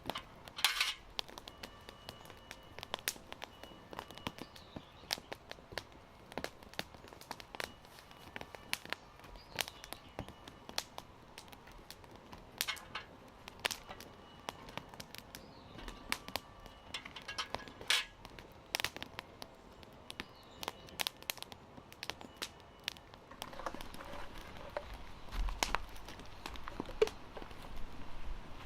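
Wood fire crackling, with irregular sharp pops and snaps; it grows denser and louder in the last few seconds.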